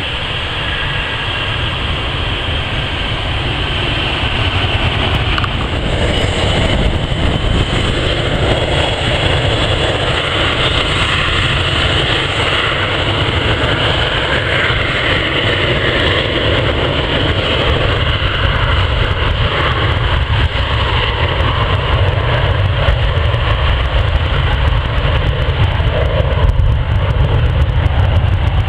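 Jet airliner engines running, the sound slowly growing louder, with a faint steady whine in the higher range and a heavy low rumble.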